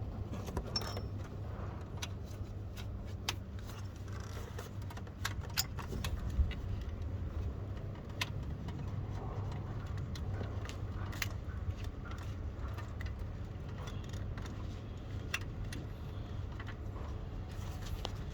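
Hand tools and bolts clicking and clinking on metal, scattered and irregular, during work on a car's starter motor, over a steady low hum; the loudest knocks come about six seconds in.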